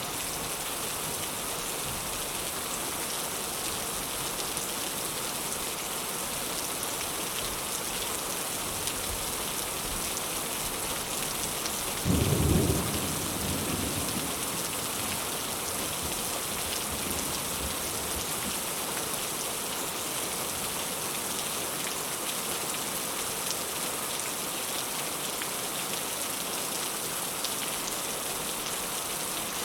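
Heavy rain falling steadily, with a single loud, low clap of thunder about twelve seconds in that rumbles away over a couple of seconds.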